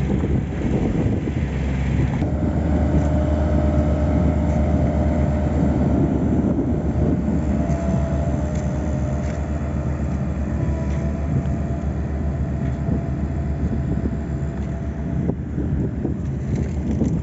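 Heavy road-building machinery with its engine running steadily under load, a low drone with a steady whine over it that comes in about two seconds in.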